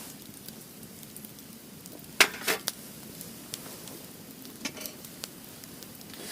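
Wood fire crackling with scattered small pops. Two sharp knocks come about two seconds in, and a few lighter ones near five seconds.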